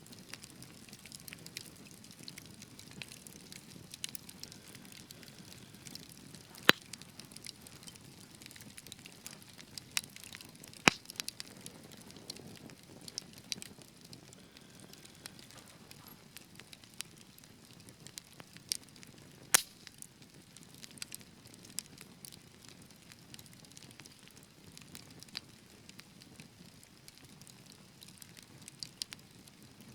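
Wood fire crackling in a fireplace: a soft steady hiss with irregular sharp pops, a few louder snaps about a quarter, a third and two thirds of the way through.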